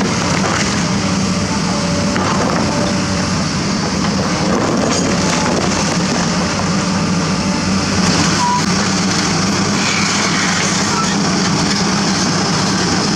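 Diesel engines of heavy construction machinery running steadily, with a continuous engine hum under a wash of site noise.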